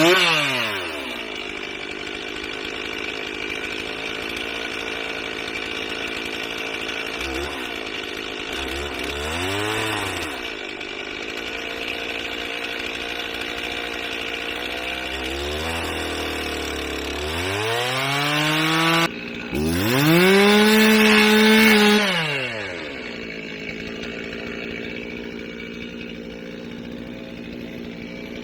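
Gas chainsaw ripping lengthwise down a log to cut a one-inch-thick slab, the engine held at high revs under load with several brief drops in pitch. Near the end it revs up loudest, then drops to a lower, steadier run before falling away.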